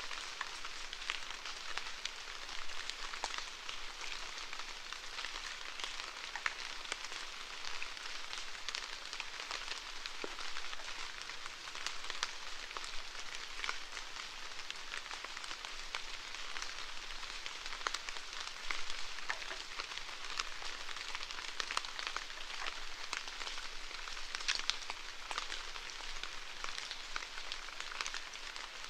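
Steady rainfall: an even hiss of rain with many small individual drop hits throughout.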